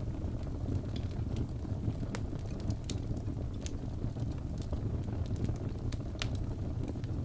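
Wood fire burning in a fireplace: a steady low rumble of the flames with irregular sharp crackles and pops of the burning wood, one of the loudest about six seconds in.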